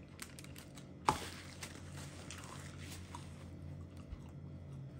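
Close-up eating sounds of a Sausage McMuffin with egg being bitten and chewed: a sharp click about a second in, then a couple of seconds of soft crackling, over a low steady hum.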